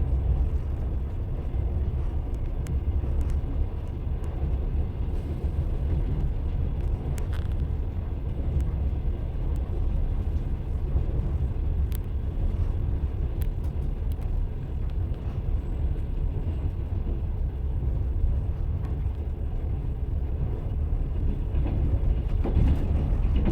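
Moving train: a steady low rumble of wheels running on rails, with a few faint scattered clicks.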